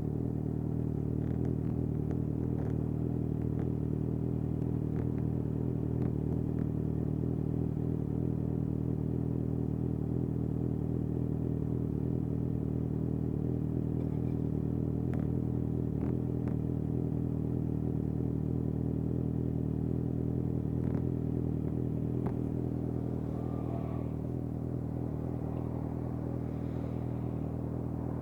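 2019 Suzuki GSX-S750's inline-four engine, breathing through a Yoshimura SQ11 exhaust with no dB killer and no catalytic converter, idling steadily at an even pitch. A few faint clicks sound over it.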